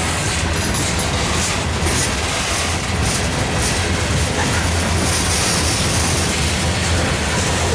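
Freight cars of a Norfolk Southern manifest train (tank cars, boxcars and covered hoppers) rolling past close by. It is a steady, loud rumble of steel wheels on rail, with a few sharp clicks as wheels cross rail joints in the first few seconds.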